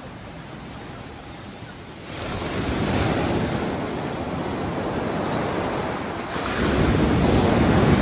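Ocean waves washing in on the shore: quieter at first, then a wave surges in about two seconds in, and another builds to the loudest point near the end.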